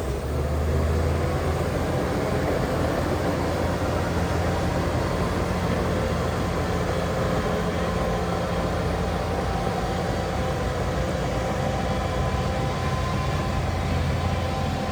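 Diesel engine of heavy earthmoving machinery running steadily, a low drone with faint steady higher tones over it.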